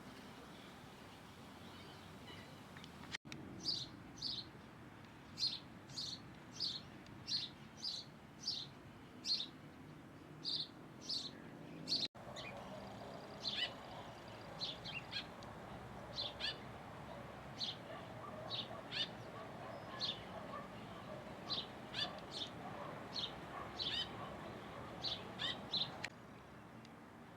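A bird calling with short, high chirps, repeated about once or twice a second, over a faint background hiss. The sound cuts out abruptly twice.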